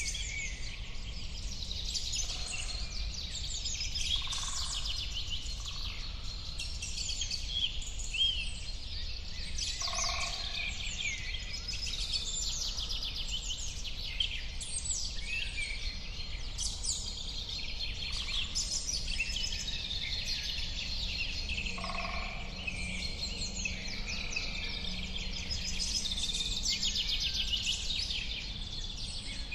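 A chorus of many birds chirping and singing at once, overlapping without a break, with a few lower calls now and then. A steady low rumble runs underneath.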